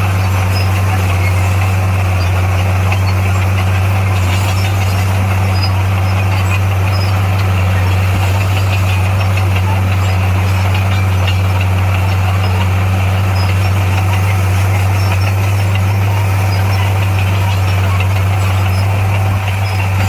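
Heavy earthmoving machine's engine running steadily at a constant low pitch, with no change in speed.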